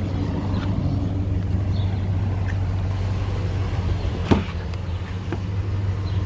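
A 2012 Nissan Titan's 5.6-litre V8 idling steadily through a catback exhaust, with a sharp click about four seconds in.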